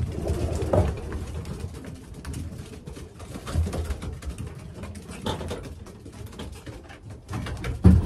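Racing pigeons cooing inside the loft, with scattered small clicks and knocks and one louder knock near the end.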